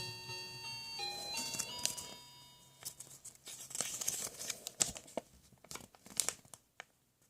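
A short electronic chiming melody of a few stepped notes, followed by irregular crinkling and tearing, like packaging being rustled and torn open.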